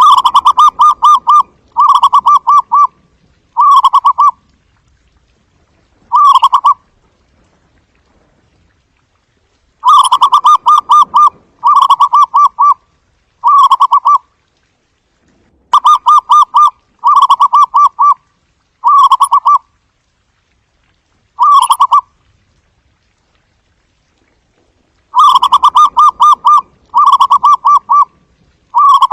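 Zebra dove (barred ground dove) giving its soft, staccato cooing call: quick trilled coos strung into phrases that grow shorter through each bout. There are three bouts, separated by pauses of a few seconds.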